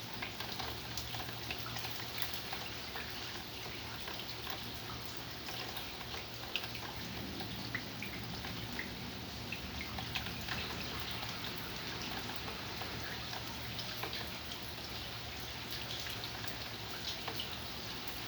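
Steady rain with many scattered drops tapping and dripping on hard surfaces.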